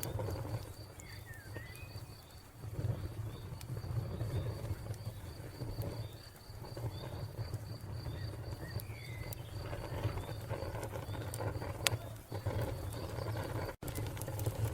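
Wood fire burning with a low, swelling rumble and a few sharp crackling pops near the end, over a cricket chirping in a steady rhythm of a few chirps a second and a couple of short bird chirps. The sound cuts out for an instant shortly before the end.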